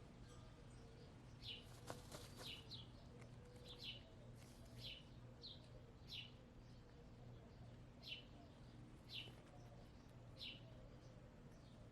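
Wild bird chirping faintly in the background, a string of short high chirps that each slide downward, about one a second.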